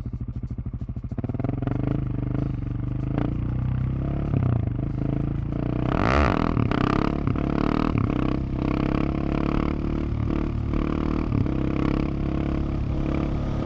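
Husqvarna 701 single-cylinder engine heard close on the exhaust. It idles with a quick, even pulse, then runs under way with the revs rising and falling.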